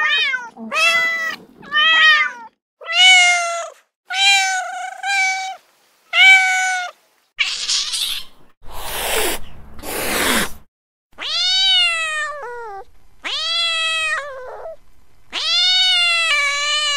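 Cat meowing over and over: a quick run of short meows, then longer, drawn-out ones. In the middle there is a stretch of rough, unpitched noise.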